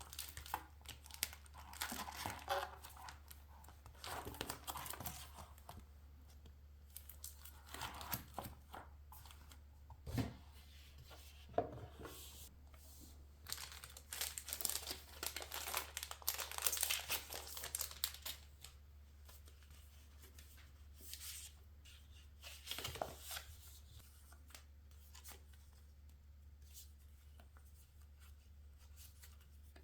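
Paper being torn and crinkled by hand in irregular bursts with a few sharp snaps, busy for most of the time and sparse near the end.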